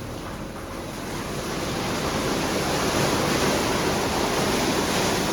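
WashTec automatic car wash in its brush wash cycle: a rushing spray of water and spinning wash brushes on the car, growing louder over the first three seconds and then steady.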